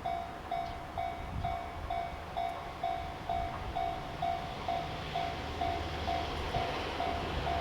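Railway level-crossing alarm ringing, an electronic tone repeating about twice a second, while an approaching train's rumble grows from about five seconds in.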